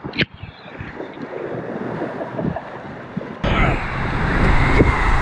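Rushing water with wind buffeting the microphone, jumping suddenly much louder about three seconds in.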